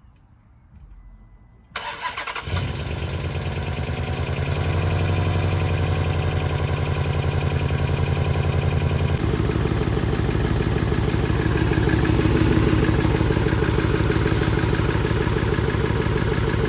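2015 Dodge Charger's 5.7 L Hemi V8 cranked over by the starter and catching about two seconds in, then running steadily, with a change in its sound about nine seconds in. It is knocking, which the owner puts down to a stuck lifter.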